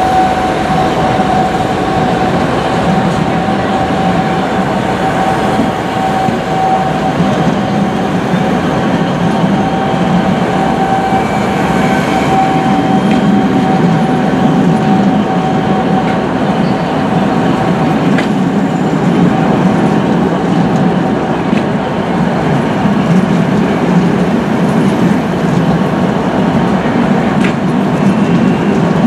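Locomotive-hauled passenger coaches rolling past the platform, a steady rumble of wheels on rail. A thin steady whine sits over it through the first half and fades out around the middle.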